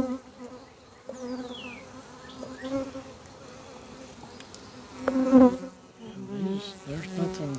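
Honey bees buzzing at an open hive: a steady hum that swells louder about five seconds in, and its pitch wavers up and down near the end.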